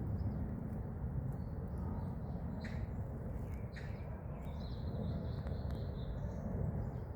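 Wild birds calling outdoors: thin high calls, with two short falling calls about three and four seconds in, over a steady low rumble.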